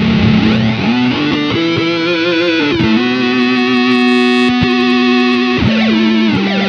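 Electric guitar played through an EarthQuaker Devices Data Corrupter PLL synth/harmonizer pedal, giving sustained, synth-like notes with stacked harmonies that step and slide from pitch to pitch. Some notes waver in pitch from the pedal's vibrato setting.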